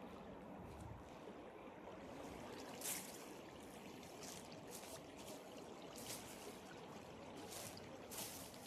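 Footsteps of a person walking slowly on a forest trail, each step a short crisp sound about once a second. Underneath is a steady faint hush of flowing river water.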